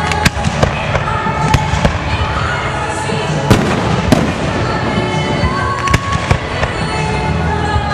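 Fireworks display bursts: an irregular string of about a dozen sharp bangs, sometimes two or three a second, the loudest about three and a half seconds in, with music playing underneath.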